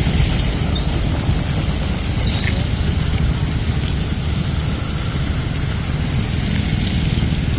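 Steady road traffic noise: a continuous low rumble of vehicles.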